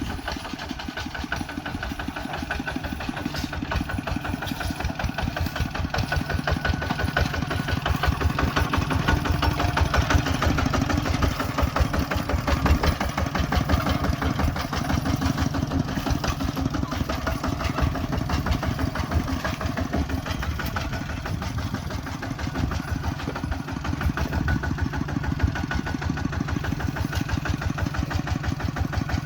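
Tractor engine, a ZT155 diesel, running steadily with an even, rapid firing beat.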